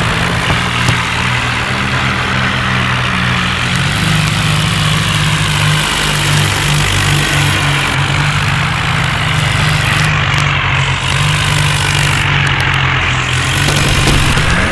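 John Deere tractor's diesel engine running steadily with a low, even hum.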